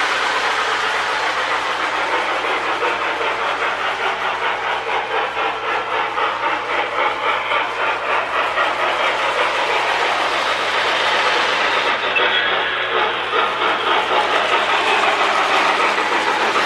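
Lionel 2055 Hudson O-gauge model steam locomotive running on its track: the electric motor and wheels run steadily, the wheels click over the rail joints, and the RailSounds tender plays a rhythmic steam chuff.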